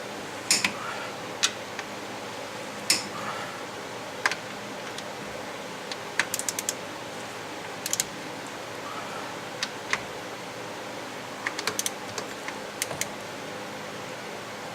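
Torque wrench and socket tightening the connecting-rod bolts on an IH 354 tractor engine: scattered sharp metallic clicks, some single and some in quick short runs, over a steady low hum.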